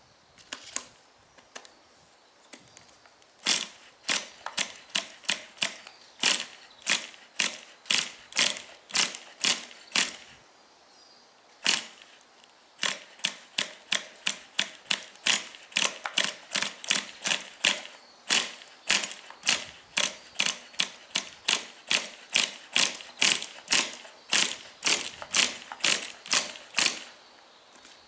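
Ratchet mechanism clicking over and over, about two to three sharp clicks a second, in two runs with a short pause in between.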